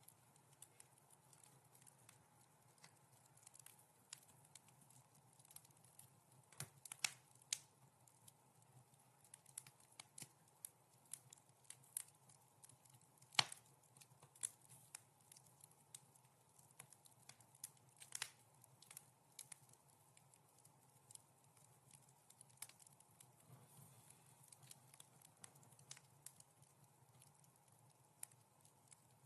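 Wood fire crackling in a fireplace: scattered, irregular sharp pops and snaps over a faint low hum, with the loudest pop about thirteen seconds in.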